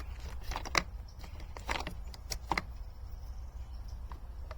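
Small clicks and taps of copper tubing being handled and fitted against the machine's plastic parts, a cluster of them in the first two and a half seconds and a few more sparsely after, over a steady low hum.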